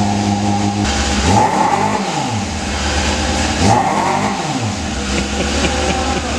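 Motorcycle engine, the 1999 Yamaha R6's 600 cc inline-four, idling and revved twice, each rev rising and falling back to idle, then idling steadily again.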